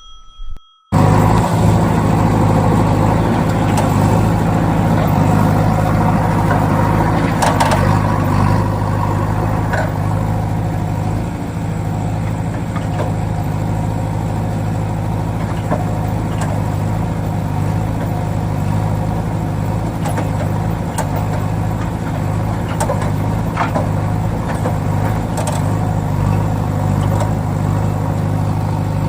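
A vehicle engine running steadily at an even low drone, starting abruptly about a second in, with a few light clicks over it.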